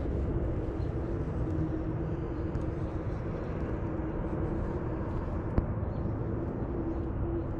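Steady low drone of a distant engine with wind rumble on the microphone, and a single sharp click about five and a half seconds in.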